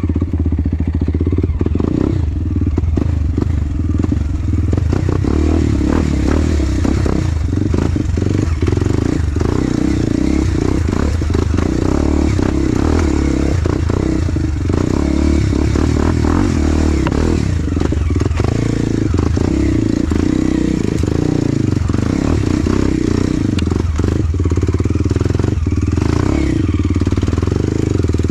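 Enduro motorcycle engine running steadily at low revs, with frequent clatters and knocks throughout.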